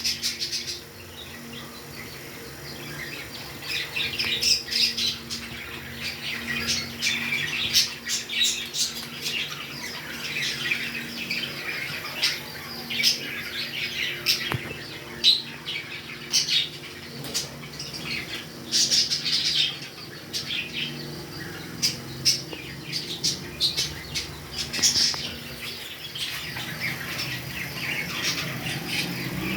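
Pet parrots squawking and chirping: many short, shrill calls in irregular bursts, one after another, with a faint steady hum beneath.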